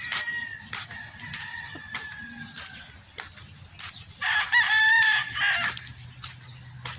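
Gamecocks (fighting roosters) crowing. A fainter drawn-out crow trails off in the first few seconds, then one loud crow comes about four seconds in and lasts about a second and a half. Short clicks are scattered throughout.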